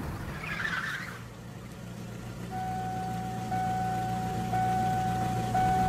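Small car's engine idling low and steady after a crash, with a steady high electronic tone joining about two and a half seconds in.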